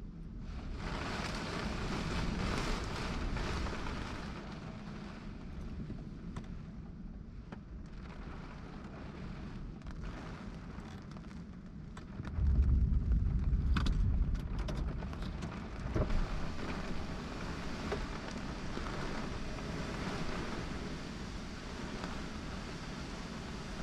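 Thunderstorm wind buffeting the microphone over a steady wash of rain and water noise. About halfway through comes a loud, low rumble lasting a couple of seconds.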